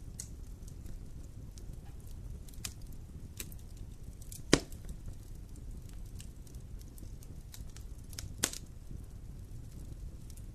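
Campfire burning: a steady low rumble of flame with scattered crackles, and two loud pops, the loudest about four and a half seconds in and another about eight and a half seconds in.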